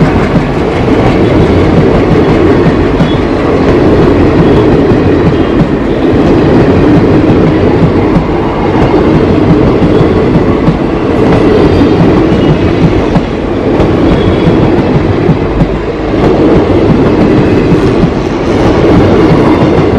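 Empty passenger coaches of a train rolling past close by: a loud, steady rumble with the wheels clattering over rail joints, dipping briefly twice in the second half.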